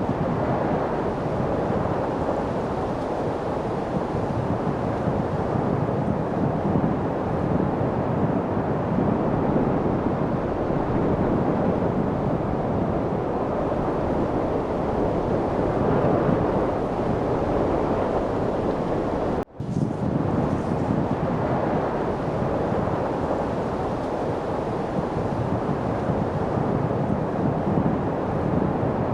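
Steady rushing wind, an even noise with no gusts standing out. It breaks off for a split second about two-thirds of the way through, then carries on as before.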